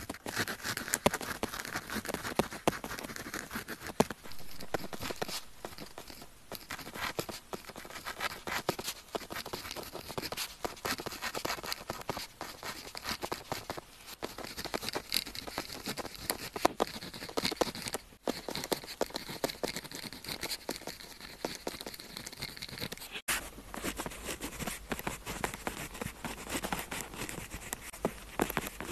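Pen tip scratching across paper in continuous writing strokes, with small taps and clicks between strokes.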